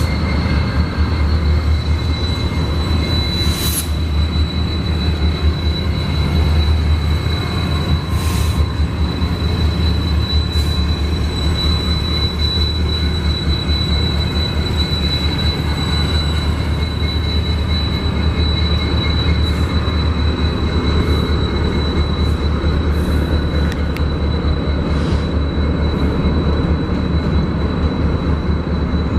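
Union Pacific freight train rolling past: a steady low rumble of the cars with a continuous high-pitched wheel squeal and a few sharp clicks from the wheels on the rails.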